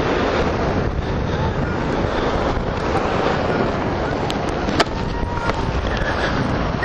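Wind rushing over the microphone of a camera carried on a hang glider in flight: a steady noisy rush, with one sharp click nearly five seconds in.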